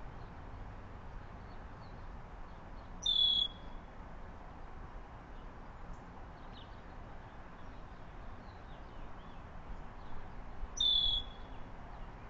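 A bird giving two identical short, high calls, about seven seconds apart, with faint scattered chirps in the background.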